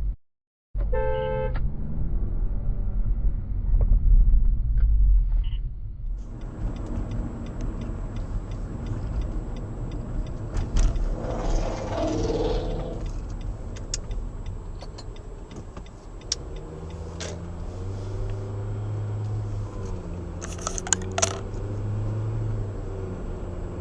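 Car driving, heard from inside the cabin: a steady low rumble of engine and road. A short tone with several pitches sounds about a second in, and a rushing swell around the middle passes by, with scattered small rattles and clicks.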